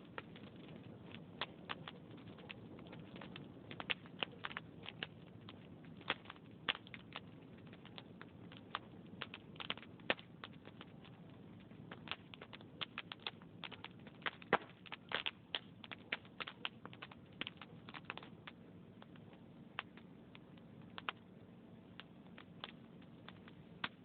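Wood logs burning in a fireplace: irregular crackles and pops, sometimes several close together, over a faint low steady rumble of the fire.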